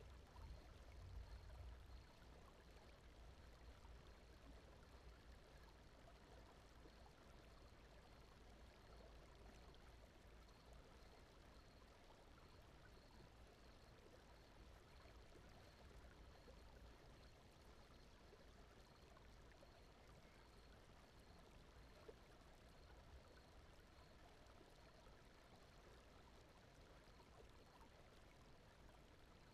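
Faint, steady, water-like rushing noise: the brown-noise and nature-sound bed of a sleep ambience track, with a faint high note pulsing evenly through it.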